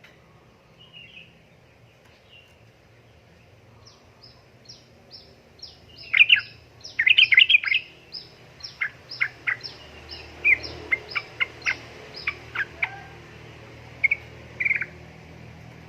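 Yellow-vented bulbul (trucukan) calling: a string of quick high chirps begins about four seconds in, builds into a loud, dense chatter a couple of seconds later, then thins out into separate sharp notes, with a last pair near the end. A faint low hum runs underneath.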